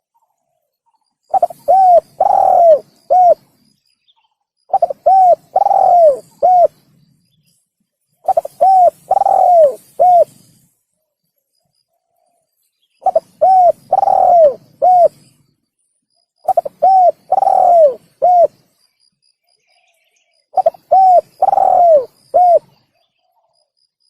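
Spotted dove (tekukur) cooing: six phrases a few seconds apart, each a run of four or five short coos with one longer, falling coo among them. It is a loud, clean recording of the call, the kind used as a lure for trapping doves.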